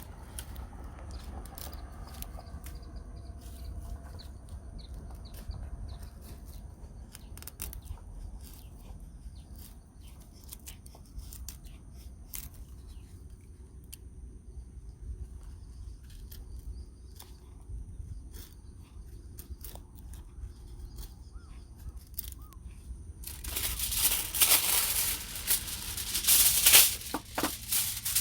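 Wind rumbling on the microphone over a small campfire with sparse crackles and pops. About 23 seconds in, loud crinkling and crumpling starts and carries on to the end.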